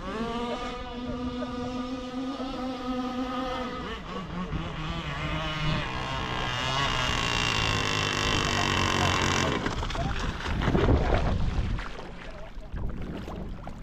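33cc two-stroke engine of a radio-controlled racing boat running, holding steady for a few seconds, then revving higher with a wavering pitch before cutting off suddenly about two-thirds of the way in. A short, louder rough noise follows near the end.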